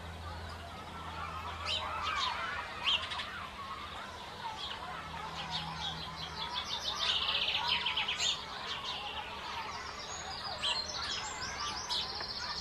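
Small birds chirping and trilling: sharp single chirps and quick runs of repeated high notes, over a faint steady low hum.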